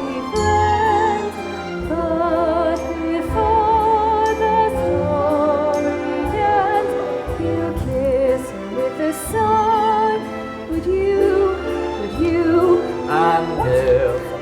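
A high female voice singing a slow ballad in a trained, operatic style, with wide vibrato on long held notes, over a pit orchestra.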